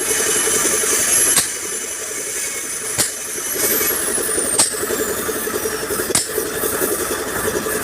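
Hammer blows on a dented truck front bumper, a sharp knock about every one and a half seconds, over a steady running engine or machine.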